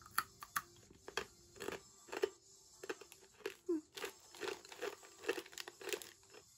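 Crunchy corn sticks being bitten and chewed: a run of irregular sharp crunches.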